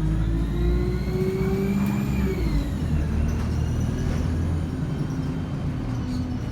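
ADL Enviro 200 bus with a 3-speed Voith automatic gearbox, heard from on board as it pulls away. Under the engine drone a turbo and transmission whine rises in pitch for about two seconds, then drops and settles to a steadier tone.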